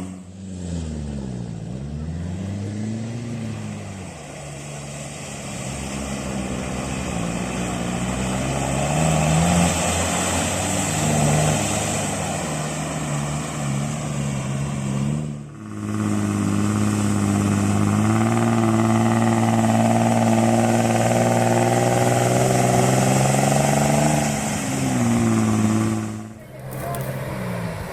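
4x4 off-road vehicle engine revving, its pitch rising and falling repeatedly. In the second half it holds a long, steady high-rev stretch, and the sound breaks off abruptly twice.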